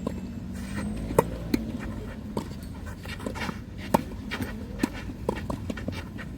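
Tennis ball being struck by rackets and bouncing on the court: a series of sharp pops at irregular intervals, the loudest about a second in, again shortly after, and about four seconds in.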